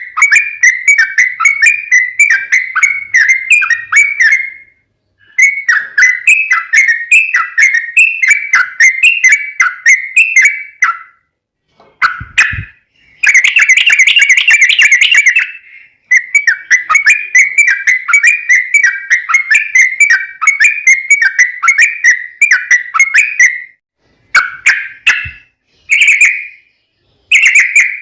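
Yellow-vented bulbul song: long phrases of rapid bubbling notes repeated several times a second, broken by short pauses, with a denser, harsher stretch about halfway through and short phrases near the end.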